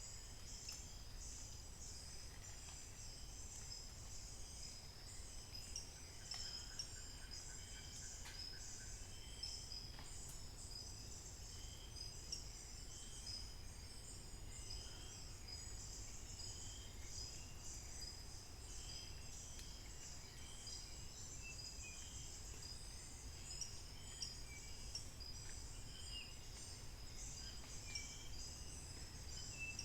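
Forest chorus: a dense, steady, high-pitched buzzing of insects, with many short bird chirps scattered through it and a brief whistled trill about seven seconds in.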